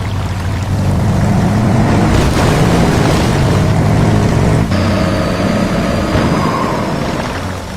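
Heavy vehicle engine running with a steady low rumble, with an abrupt change in the sound about four and a half seconds in.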